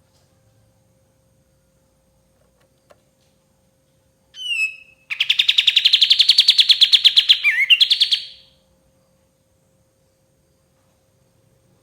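Kapas tembak songbird singing: a few quick falling notes about four seconds in, then a loud, fast trill of evenly repeated high notes lasting about three seconds.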